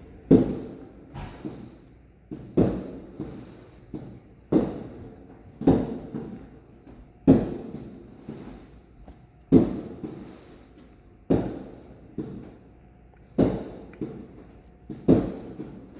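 Neighbours' fireworks going off in a steady series: a loud bang about every two seconds, each trailed by a couple of smaller pops and a dying echo. A faint falling whistle follows several of the bangs.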